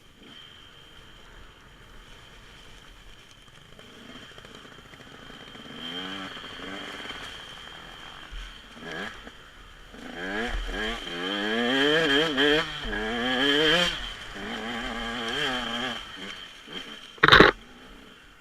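Dirt bike engine revving, its pitch rising and falling repeatedly as the throttle is worked, loudest in the middle. Near the end there is one short, loud bang.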